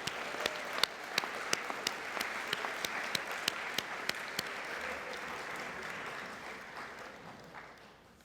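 Audience applauding, with one nearby pair of hands clapping sharply in a steady beat of about three claps a second over the first half. The applause fades away toward the end.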